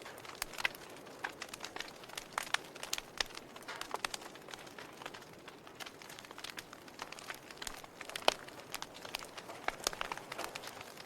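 Log fire crackling: irregular sharp pops and snaps, several a second at times, over a soft steady hiss of burning wood.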